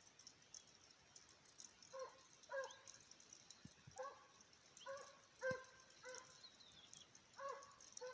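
Scent hound baying in the distance, about eight short barks at uneven intervals starting about two seconds in: the hound giving voice on a hare's trail during the chase.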